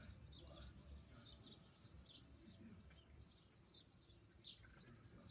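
Common swifts screaming: a faint, continuous run of short, shrill, high calls, several a second.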